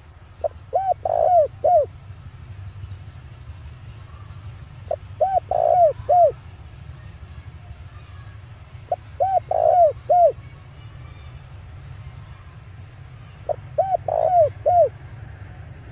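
Male spotted dove cooing, four phrases about four and a half seconds apart, each a quick run of several short coos. A steady low hum runs underneath.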